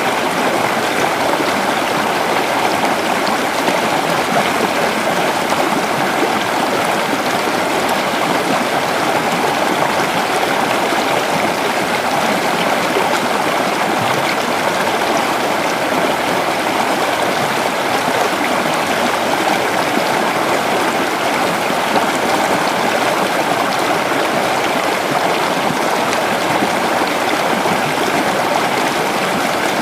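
Creek water running steadily over rocks, a continuous rushing and gurgling flow.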